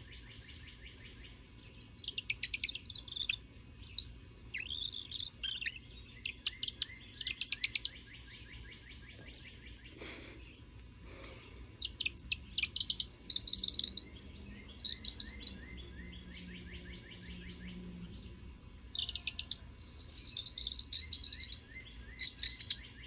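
Audubon twist bird call, a wooden body squeaked by twisting a pewter plug, making runs of rapid, squeaky bird-like chirps in three bouts. Fainter, evenly repeated chirping runs behind it.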